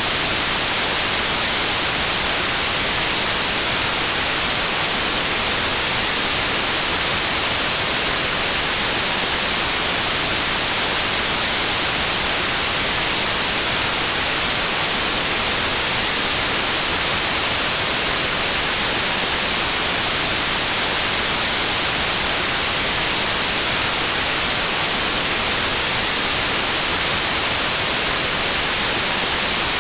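Steady white noise: an even, unchanging hiss, brightest in the treble, with no other sound in it.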